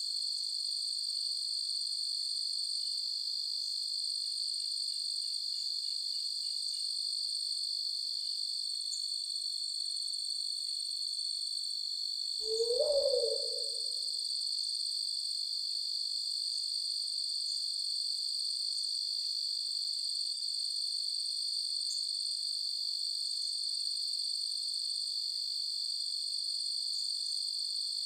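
Crickets trilling in a steady, high-pitched night chorus. About halfway through, a single brief, lower sound rises and falls in pitch and stands out as the loudest thing.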